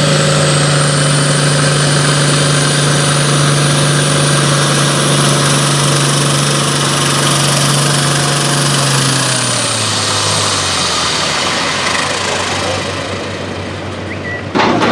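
A tractor or truck pulling engine running hard at a steady high speed with a high whine over it, then winding down, its pitch falling, about nine seconds in. A loud voice cuts in at the very end.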